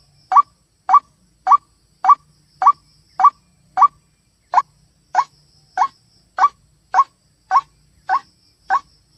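White-breasted waterhen (ruak-ruak) calling: a short, rising note repeated about every 0.6 seconds, with one slightly longer pause about four seconds in.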